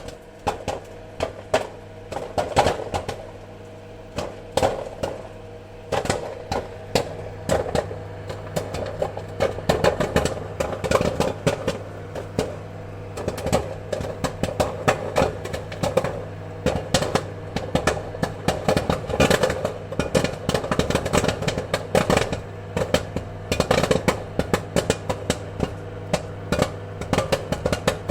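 Popcorn kernels popping: many sharp, irregular pops, thicker in bursts, over a steady low hum.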